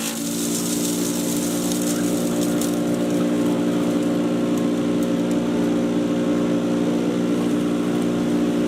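Patriot 2.5-inch 1.5-HP electric chipper shredder running steadily, its motor hum even throughout, with a few faint clicks about two to three seconds in.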